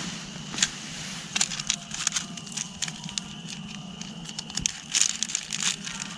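Nylon hammock bedding rustling and crinkling, with scattered soft ticks, as someone shifts and settles in.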